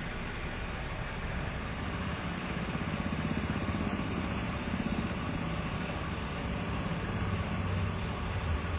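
Storm wind buffeting the microphone over steady rain, a continuous rush with low rumbling gusts that swell about three seconds in and again near the end.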